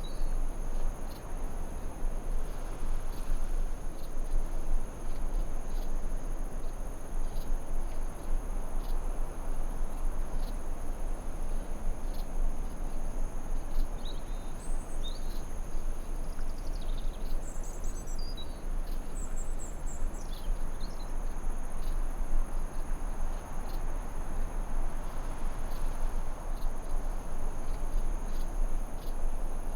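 Forest ambience: a steady high-pitched insect trill, like crickets, over an even rushing background, with birds chirping briefly a few times around the middle.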